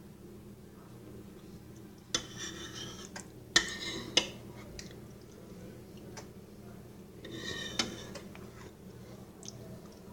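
A spoon scraping and clinking against a nearly empty bowl, three times, as the last of the chili is scooped up.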